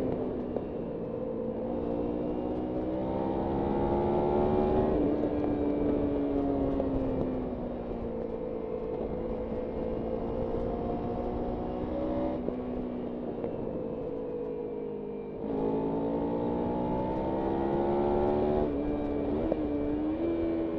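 Kawasaki Ninja 300's parallel-twin engine, heard from on the bike, pulling through the gears. Its pitch climbs and eases with the throttle, with sudden steps about two seconds in, around twelve seconds and near fifteen seconds as it shifts. Road and wind noise run underneath.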